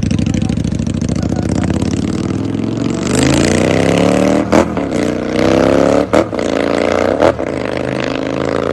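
Motorcycle engine running steadily, then revving hard from about three seconds in, its pitch climbing and breaking sharply three times.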